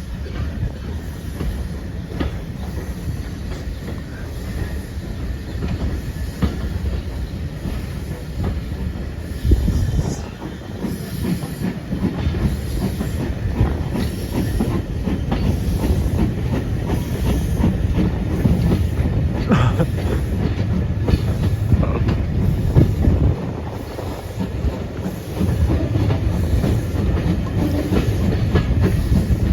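Railway passenger coach running along the line: a steady low rumble with the clickety-clack of wheels over rail joints.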